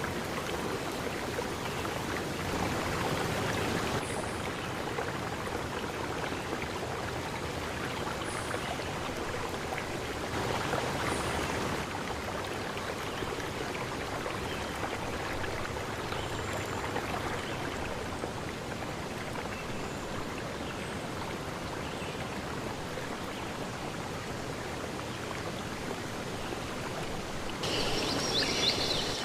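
Stream water running steadily. Near the end, a brief louder, higher-pitched sound joins in.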